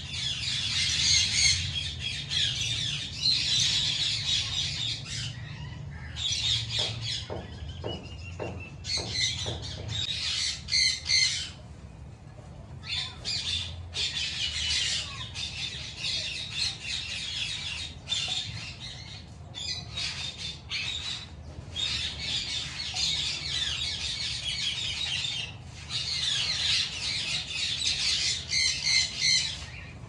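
Birds chirping and squawking in dense, high-pitched stretches, broken by a few short pauses.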